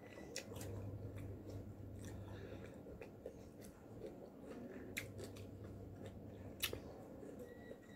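A person quietly chewing a mouthful of young-mango rujak, with scattered soft wet mouth clicks. A sharper click comes about six and a half seconds in.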